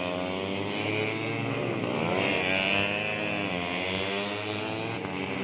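Several 150cc four-stroke underbone racing motorcycles running at high revs, their engine notes overlapping. The pitch sweeps down and back up around the middle as bikes pass and change speed.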